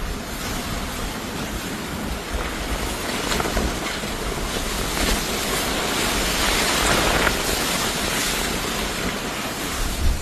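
Steady rushing noise of fast-flowing floodwater and wind, swelling a little around the middle.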